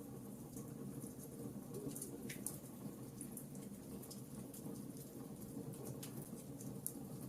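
Wood logs burning in a fireplace: a steady low rush of flame with sharp, irregular crackles and pops from the wood, a few each second.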